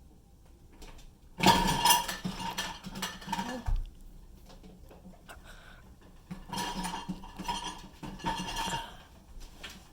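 Dishes and cutlery in a dishwasher rack clattering and clinking as a dog jostles them, in two spells of about two seconds each.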